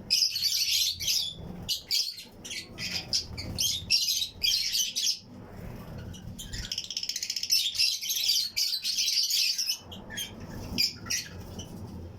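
A colony of Fischer's and lutino lovebirds chirping and chattering together in rapid, high-pitched, overlapping calls, with a sustained burst of fast chatter in the middle.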